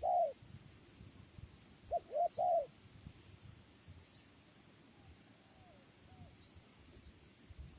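Spotted dove cooing: the last note of one phrase at the very start, then a loud three-note coo about two seconds in, and fainter coos around five to six seconds. A small bird gives short, faint, high chirps at regular intervals throughout.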